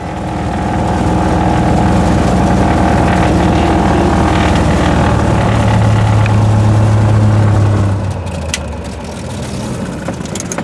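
Cessna 182's piston engine and propeller running steadily, with the sound dropping in level about eight seconds in.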